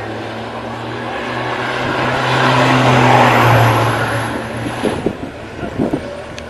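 A motor vehicle passing by: engine and road noise swell to a peak about three seconds in, then fade away. A few short knocks follow near the end.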